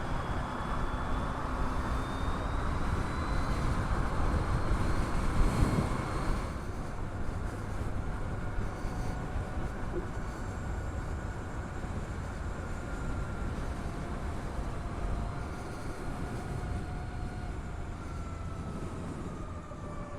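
Harley-Davidson LiveWire electric motorcycle under way: the motor's high whine gliding up and down in pitch with road speed over a steady rush of wind and road noise, which eases about six seconds in.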